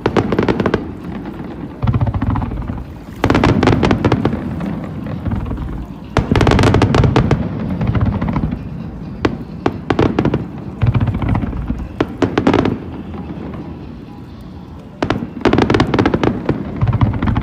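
Aerial fireworks display: shells bursting in repeated salvos, each a sharp bang followed by rapid crackling, with the loudest clusters about three, six and fifteen seconds in.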